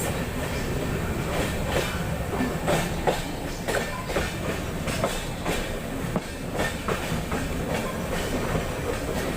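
Passenger express train running on the rails: a steady low rumble with irregular sharp clickety-clack of the wheels passing over rail joints.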